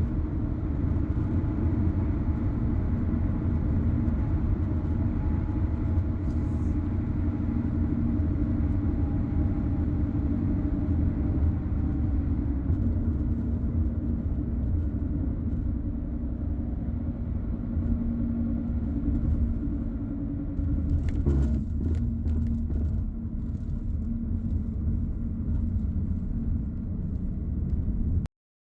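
Car driving along a road: a steady low rumble of engine and tyres, with a couple of brief knocks, cutting off suddenly near the end.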